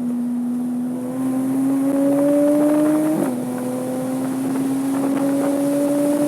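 Porsche 987.2 Cayman S flat-six engine under hard acceleration, its pitch climbing steadily, with one quick upshift about three seconds in before it climbs again.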